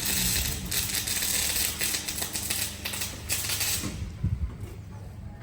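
Welding arc crackling and sizzling steadily, stopping about four seconds in.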